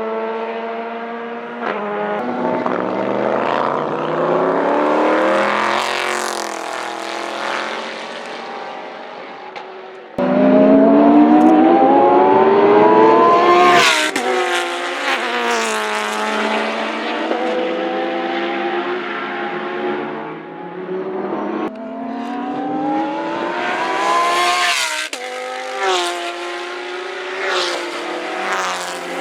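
Race car engines at full throttle on a road course, rising in pitch as they accelerate and dropping at each upshift, one car after another. A loud car starts suddenly about ten seconds in and climbs to a peak before shifting.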